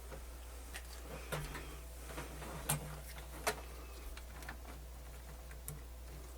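Scattered light clicks and taps from handling test leads and small parts on an opened cassette deck, about half a dozen in all, the loudest near the middle, over a steady low hum.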